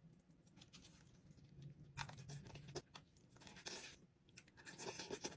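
Near silence with faint, scattered small clicks and crackles, starting about two seconds in and growing more frequent near the end.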